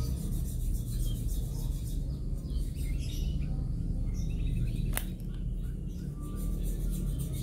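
Birds chirping in short calls over a steady low rumble, with one sharp click about five seconds in.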